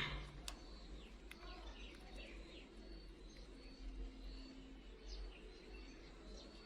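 Faint bird chirps: short, high calls scattered irregularly, with a couple of small sharp clicks near the start.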